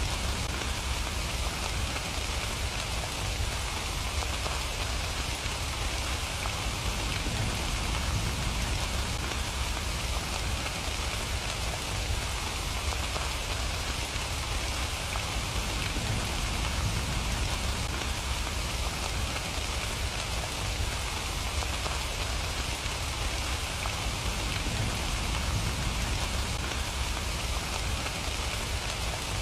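Steady rain falling, a continuous even patter of drops on surfaces with a low rumble underneath.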